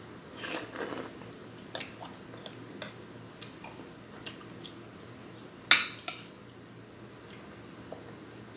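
Eating utensils and dishes clinking and knocking: irregular sharp clicks, a small cluster about half a second in and the loudest knock a little past the middle.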